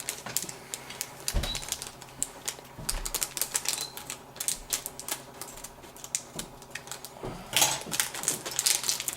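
Rapid, irregular light clicks and rattles of small plastic connectors and cables being handled while front-panel wires are fitted to a PC motherboard, getting busier and louder near the end.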